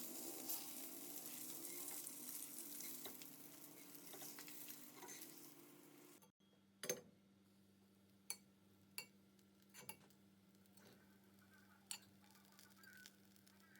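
Food sizzling in hot oil in a frying pan, fading over about six seconds and then stopping suddenly. A handful of light clinks of utensils follow.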